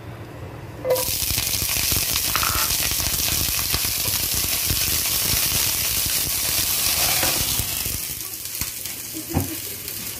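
Red pepper strips hitting hot oil in a nonstick frying pan, starting a loud sizzle suddenly about a second in, while a spatula stirs them; the sizzle eases off near the end.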